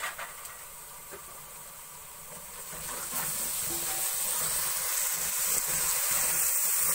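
Hot oil sizzling in a pot of fried onions and freshly added chopped tomatoes, growing louder about three seconds in as a wooden spoon stirs them through.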